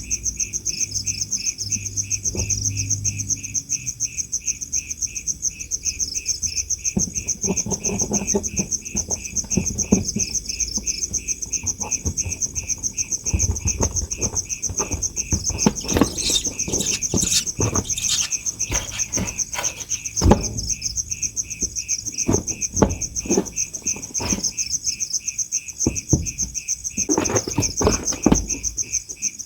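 Crickets chirping in a fast, steady pulsing trill, joined from about seven seconds in by scattered rustling and soft knocks.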